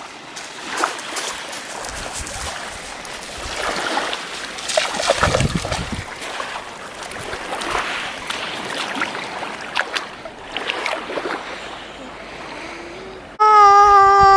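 Ocean surf washing in with irregular splashing and wind buffeting the microphone. About a second before the end, a child's loud, held wail cuts in abruptly.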